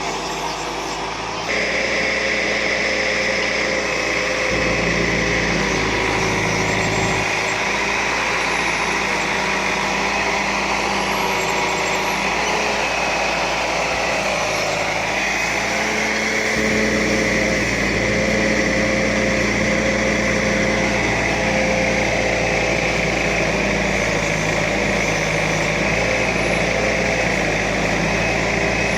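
ACE AX 130 backhoe loader's diesel engine running steadily under working load, its pitch and tone shifting abruptly a few times.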